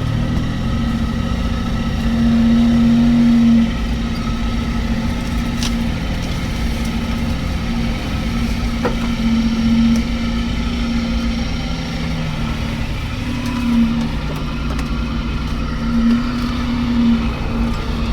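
A motor vehicle's engine running steadily while driving, swelling a little louder now and then, most strongly about two to three and a half seconds in.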